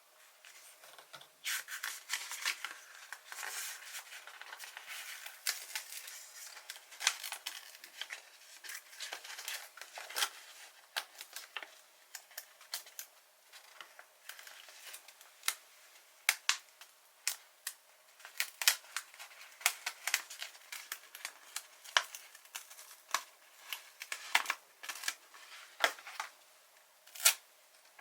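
Paper stickers being handled close up: rustling and peeling noises for roughly the first half, then a run of sharp, irregular clicks and snaps of paper.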